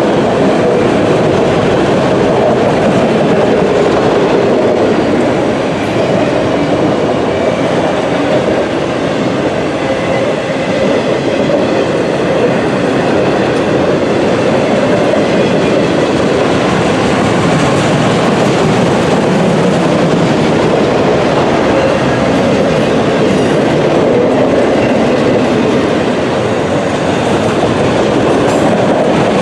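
CSX freight train's cars rolling steadily past, a continuous loud rumble of steel wheels on the rails.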